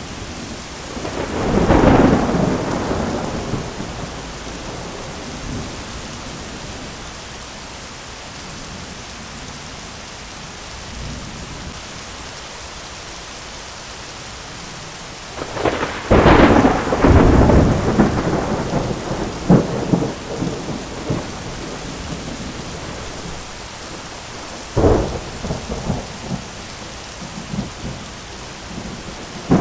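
Thunderstorm: steady rain with thunder, a rumble about two seconds in, a long loud burst of cracks and rumbling past the middle, and a sharp crack with smaller rumbles near the end.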